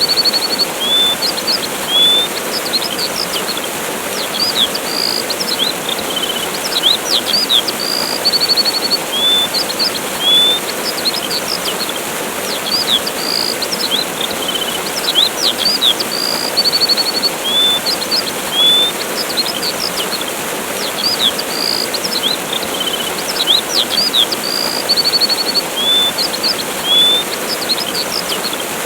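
Steady rush of a waterfall with birds chirping over it: short upswept calls, whistled notes and quick trills. The same run of birdsong comes round again about every seven and a half seconds, as a loop.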